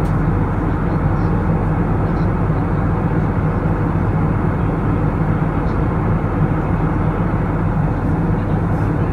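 Steady jet airliner cabin noise: engine drone and rushing airflow heard from inside the passenger cabin, with a constant low hum.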